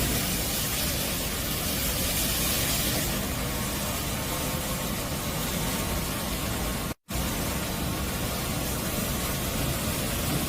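ICE i-32BT wet floor scrubber running: a steady hiss over a low rumble from its vacuum and brush motors. It breaks off for a split second about seven seconds in.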